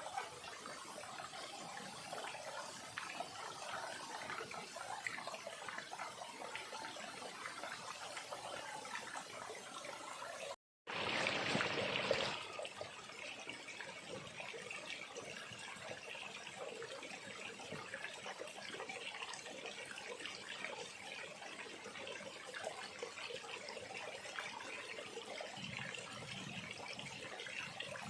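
Small stream trickling and flowing steadily. About eleven seconds in, the sound cuts out for a moment and then comes back as a louder rush of water for about a second and a half before settling back to the steady trickle.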